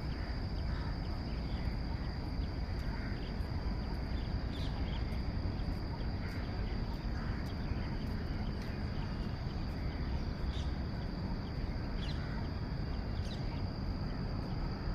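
Outdoor ambience: a steady high-pitched insect drone, like a cricket, over a low rumble, with scattered short faint bird calls.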